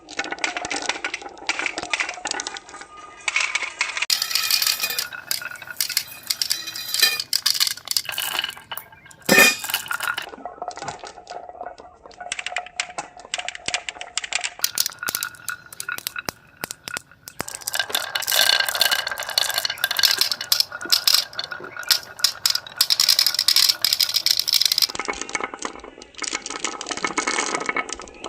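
Continuous irregular clinking and rattling of small hard objects, with a sharp louder knock about nine seconds in.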